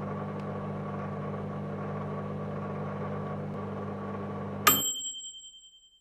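Microwave oven running with a steady hum, which cuts off near the end as its timer bell dings once and rings out, signalling that the cooking cycle is finished.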